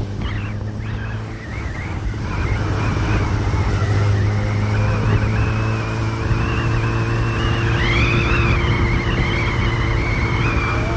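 An engine running steadily with a low hum, and a high whine that wavers up and down in pitch over it.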